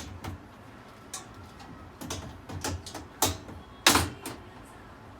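Irregular clicks and knocks of range hood parts being handled during a repair, about seven in all, with the loudest about four seconds in.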